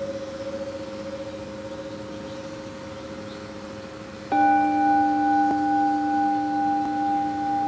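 Crystal singing bowls ringing: one bowl's steady tone slowly fades. About four seconds in, another bowl is struck and rings out louder, with a lower and a higher tone that pulse gently as they sustain.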